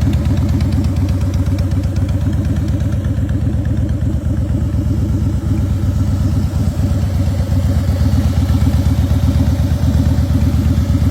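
2010 Harley-Davidson Fat Boy's Twin Cam 96 V-twin idling steadily through a Vance & Hines chrome exhaust, a loud, even beat.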